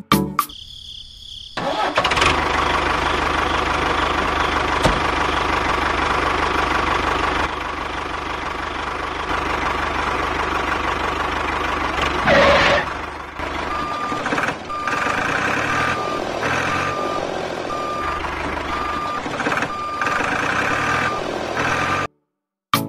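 A heavy vehicle's engine comes in about two seconds in and runs steadily, with a short louder sound about halfway through. From a little past halfway a reversing alarm beeps about once a second until the sound cuts off abruptly near the end.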